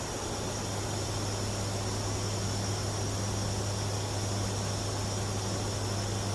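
Lockheed WC-130J Super Hercules turboprops and propellers running steadily: a constant low drone with a thin high whine over a hiss.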